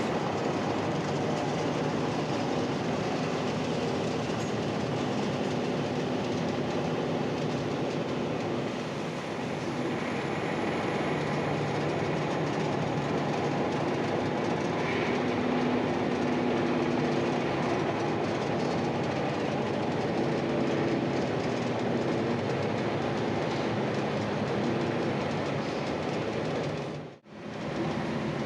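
Interior of an Ikarus-260 city bus under way: the diesel engine running, with a steady rumble and hum from the moving bus. The engine note shifts a couple of times as the bus changes speed. The sound cuts out briefly near the end.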